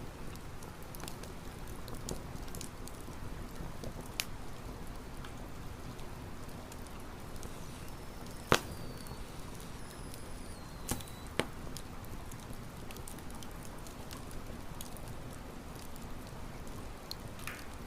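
Wood campfire burning with a steady low rumble and sparse sharp crackles and pops, the loudest pop about halfway through. Just after it a faint high whistle glides downward.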